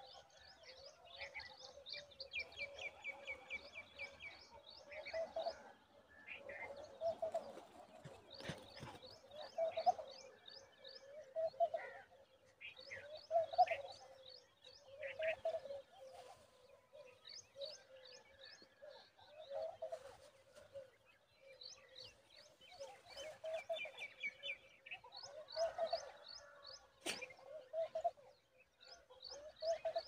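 Birds chirping: repeated bursts of quick, high chirps and trills, over a low call that recurs about every one and a half to two seconds. A single sharp click comes near the end.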